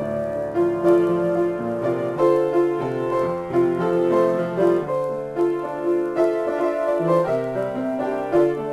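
Solo piano improvising, with chords and melody notes held over one another and a new note or chord about every half second.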